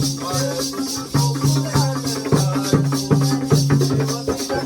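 Jakhadi folk music playing on between sung lines: a drum beating a steady rhythm, a fast jingling metal percussion on top, and a held low note underneath.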